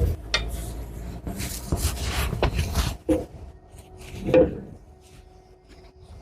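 A series of knocks and clatter of objects being handled, over a low rumble that stops about three seconds in; the loudest knock comes about four seconds in and rings briefly.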